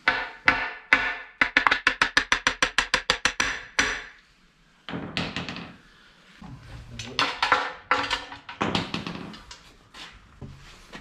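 Hammer blows on a bearing driver, knocking a new cam bearing into the bore of a CAT D4D diesel engine block. The metal strikes ring; a few spaced blows are followed by a fast, even run of about eight a second, then more scattered blows. The bearing is not moving in its bore, which the men take to mean the driver is pushing through the bearing.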